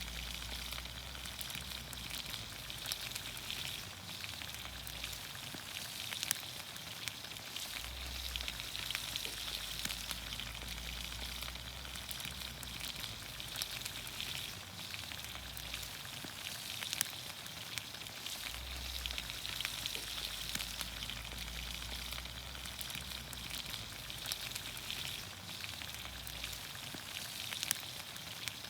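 Green beans, onions, carrots and potatoes sizzling in olive oil over a campfire: a steady sizzle with many small pops and crackles scattered through it.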